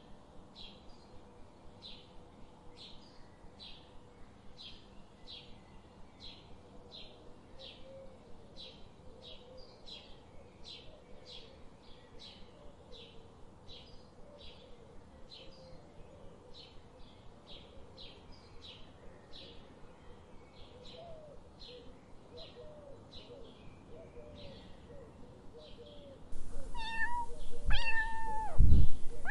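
Faint short high chirps repeating about twice a second, with fainter lower chirps, then near the end a domestic cat meowing loudly several times.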